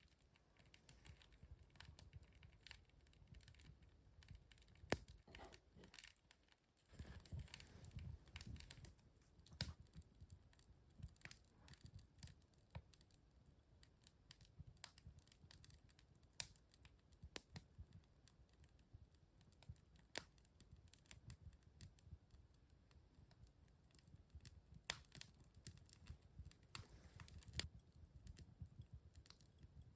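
Wood fire crackling in a fireplace: irregular sharp pops and snaps, a few of them much louder, over a faint low rumble of the burning fire.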